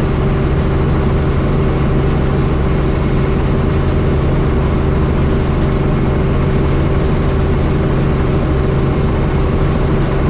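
Helicopter in steady flight: an even, continuous rotor and engine drone with a fast low beat from the rotor blades and a few steady tones.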